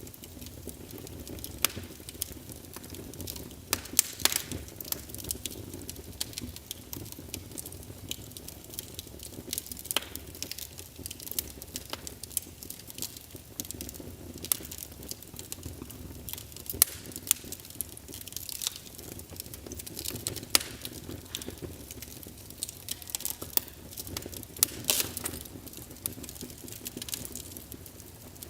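Wood fire burning in a fireplace: irregular crackles and sharp pops over a low, steady rush of flame.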